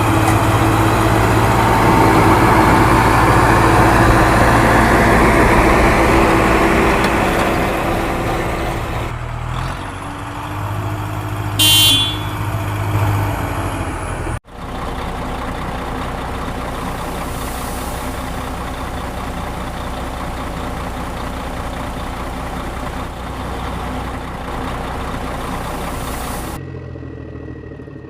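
Heavy diesel machinery engines running steadily, with a short high-pitched beep, like a horn, about twelve seconds in. The sound changes abruptly a few times, from one running engine to another.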